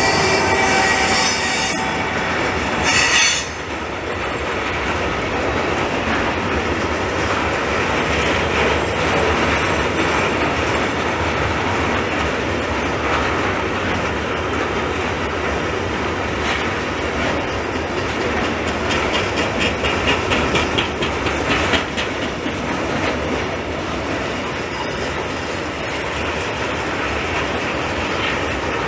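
Long intermodal container freight train rolling past behind an SNCF Fret electric locomotive, with the steady rumble of its wheels on the rails. High-pitched tones sound as the locomotive goes by at the start, with a short sharp burst about three seconds in. A thin high squeal comes in the middle, and rapid clacking of wheels over rail joints about twenty seconds in.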